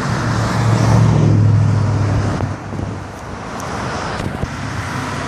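Classic car engine running loud as the car passes. A low, steady drone builds to its loudest between about one and two seconds in, then drops away sharply, leaving steady traffic noise.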